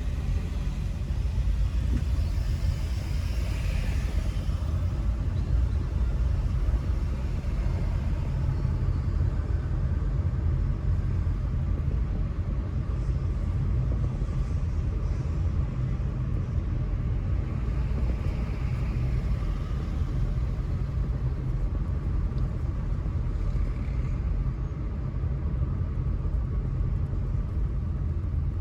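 Car driving through city streets: a steady low rumble of engine and tyres on the road, with a few brief, faint higher swells along the way.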